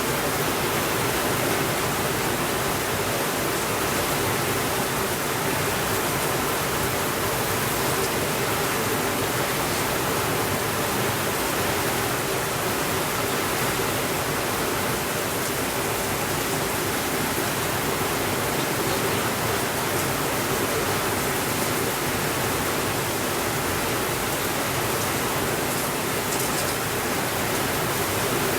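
Steady rainfall, an even unbroken hiss, with a few faint clicks.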